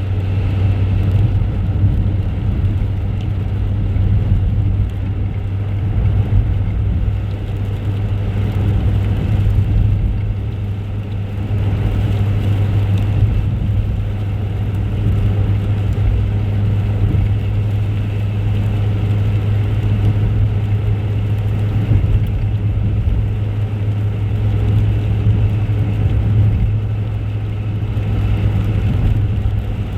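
Motor vehicle running steadily, a constant low engine drone with road noise and no change in speed.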